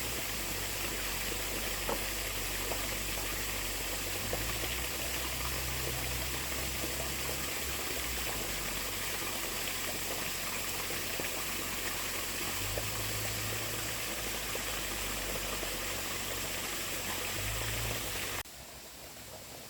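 Steady rush of running water, like a stream, with a few faint clicks over it; it cuts off suddenly to a much quieter background near the end.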